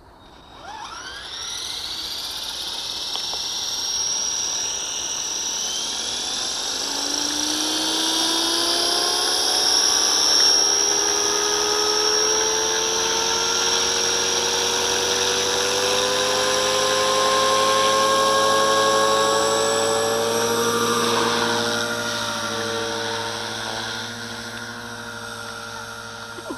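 Walkera V450D01 electric RC helicopter spooling up. The whine of the motor and rotor climbs steadily in pitch for about twenty seconds, then dips a little and settles steady and slightly lower near the end.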